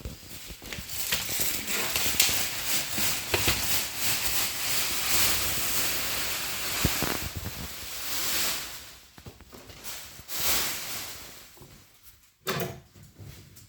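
Packaging of a television being handled during unboxing: dense rustling and scraping with scattered clicks, which dies down about nine seconds in, with a couple of shorter bursts after.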